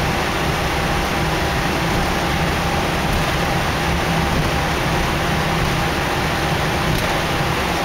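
Steady cockpit noise in an Airbus A319: a constant rush of engine, airflow and air-conditioning noise with a low hum and a faint steady tone.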